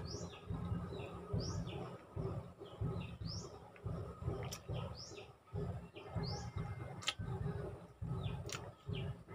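A small bird chirping over and over, short high calls about once a second, over close-up chewing and lip-smacking with a few sharp mouth clicks from someone eating by hand.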